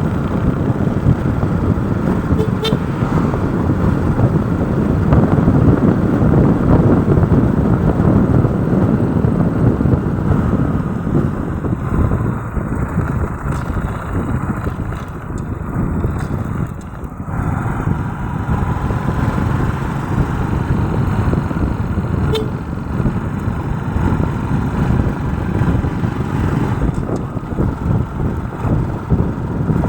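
Steady road traffic and engine noise heard while riding, with wind rumble on the microphone. Two brief horn toots, one about 3 seconds in and another past the midpoint.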